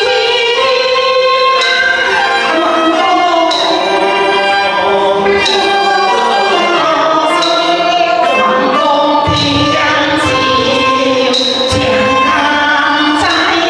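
Teochew opera singing with its instrumental accompaniment: a melody slides and wavers over a dense band, and a sharp percussion stroke falls about every two seconds.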